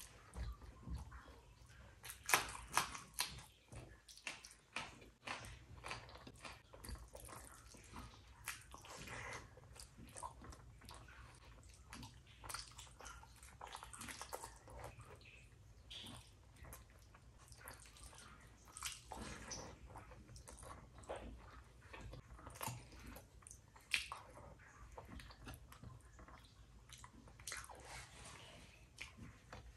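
A person chewing and eating rice and curry, with a steady run of irregular wet mouth smacks and clicks; a few sharper smacks stand out, one a couple of seconds in and one near the end.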